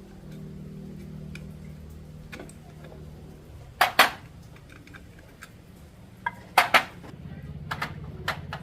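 Metal tools and parts clinking and clanking a few times over a low steady hum, with the loudest knocks about four and seven seconds in.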